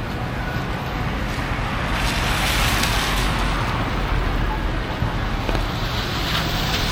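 City street traffic: a steady low rumble with a hiss that swells about two seconds in and again near the end, as vehicles pass.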